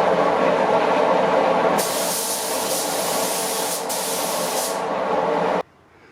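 Paint spray gun hissing as it lays down a silver metallic base coat, over a steady machine drone. The high hiss of air and paint starts about two seconds in and lasts about three seconds, briefly dipping once. All of the sound stops abruptly near the end.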